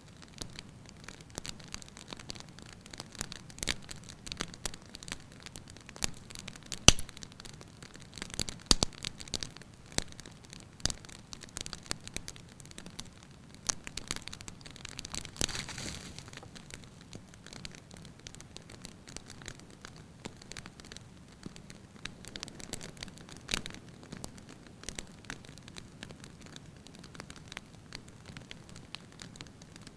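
Wood fire burning in a fireplace, crackling with a steady run of small irregular snaps and a few louder pops. A brief hiss swells up about halfway through.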